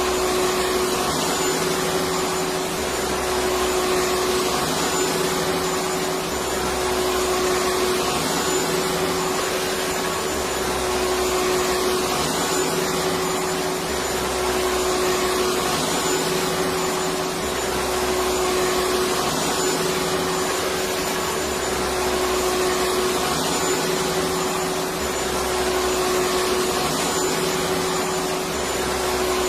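Electric vacuum cleaner running steadily: an even rushing hiss with a constant motor whine, and a low throb that swells and fades about every two seconds.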